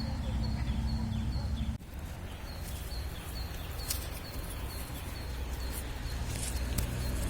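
Outdoor nature ambience with a short, high bird chirp repeated a bit over twice a second, over a low rumble. About two seconds in, an abrupt edit drops the rumble, and scattered brief bird calls follow while the chirping goes on.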